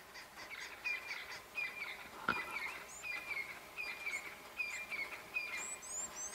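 Wild birds calling: a short call repeated about every three-quarters of a second over a fast, even ticking chirr, with a few high rising chirps near the end. One sharp click sounds a little over two seconds in.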